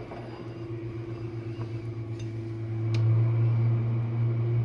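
Jenn-Air dishwasher running its wash cycle: a steady motor hum that grows louder about three seconds in, with a couple of faint ticks.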